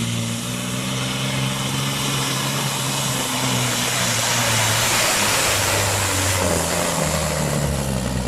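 Supersport-class pulling truck's engine running hard under load while towing the sled. Its pitch drops in steps about halfway through and again near the end, with a rush of noise in between.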